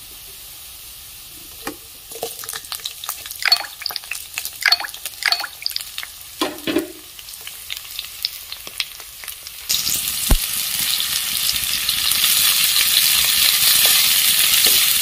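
Chopped onion, garlic and whole spices frying in hot mustard oil, crackling with scattered pops. About ten seconds in, a loud steady sizzle starts as the fresh tomato and green chillies are stirred in with a spoon, with one knock of the spoon on the pan.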